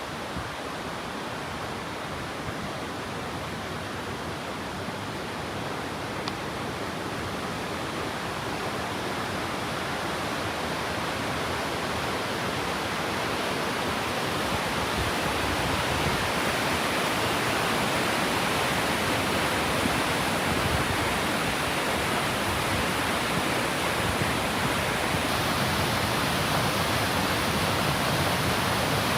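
Waterfall rushing, a steady dense hiss of falling water that grows gradually louder.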